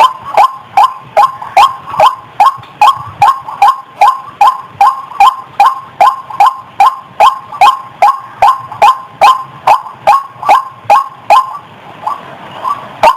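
White-breasted waterhen (ruak-ruak) calling as a bird-catching lure: short falling notes repeated in a fast, even rhythm of about three a second. Near the end the calls falter and become weaker.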